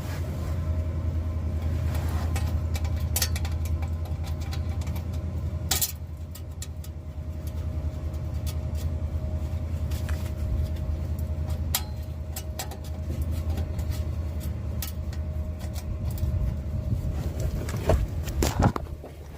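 Flux-core MIG welder running a weld: a steady buzzing arc with irregular crackling spatter, cutting off just before the end.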